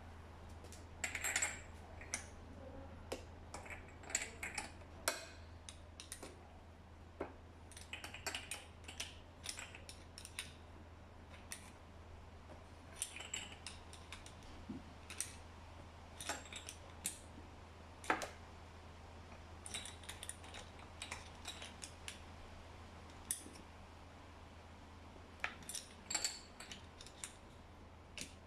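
Irregular metallic clicks and clinks of hand tools and small metal engine parts being handled, over a faint steady low hum, during reassembly of a scooter's two-stroke top end.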